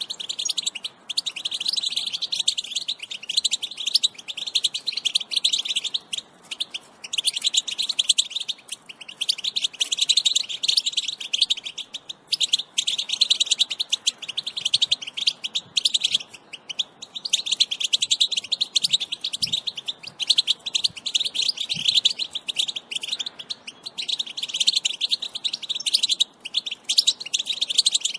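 European goldfinch song: long runs of fast, twittering chatter broken by short pauses every few seconds.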